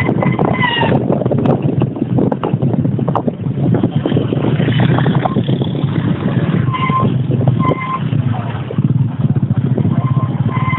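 Motorcycle engine running steadily under way, with wind and road noise. A few short, high beeps come about a second in, twice around the middle, and again near the end.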